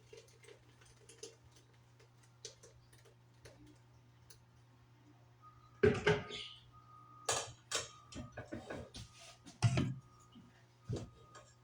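Kitchen handling sounds: light clicks and taps, then several louder clatters of dishes and utensils being handled, about six seconds in, again near ten seconds and once more near eleven. A steady low hum runs underneath.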